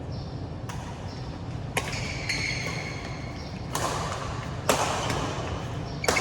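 Badminton rally: five sharp racket strikes on the shuttlecock, one to two seconds apart. Short high squeaks fall between two of the hits.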